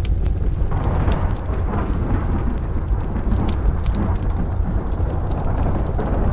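Layered rain, thunder and fire ambience: a low thunder rumble under steady rain, swelling about a second in and again near the end, with sharp crackles and pops from a wood fire scattered throughout.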